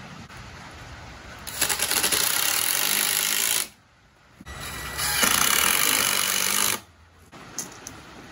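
Heavy rain falling on a roof overhead, loud and steady in two stretches of about two seconds each that start and stop abruptly, with a lighter hiss of rain around them.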